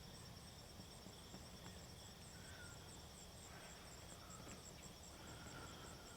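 Faint outdoor insect chorus: a high, rapid, evenly pulsing trill over a couple of lower steady whines, with a few short faint whistled notes in the second half.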